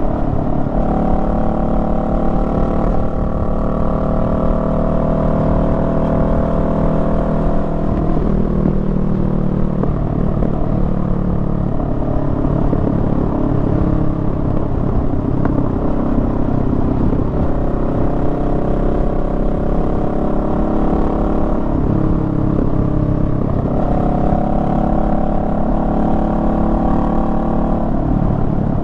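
Honda Rebel 500's parallel-twin engine running under way on a motorcycle ride. It holds steady revs for long stretches, and its note shifts as the throttle changes, about a third of the way in and again near three quarters.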